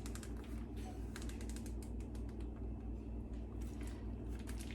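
Plastic zip-top bag of marinating chicken being handled and pressed shut as the air is squeezed out: a faint, irregular run of small clicks and crinkles.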